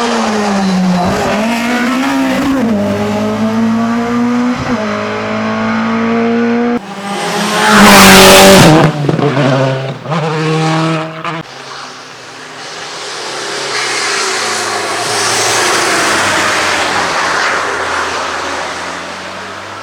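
Racing car engines at full throttle on a hillclimb, the pitch climbing and dropping with each upshift. About eight seconds in, a car passes close by in the loudest moment, its note falling as it goes. A hazier engine and tyre noise then swells and fades.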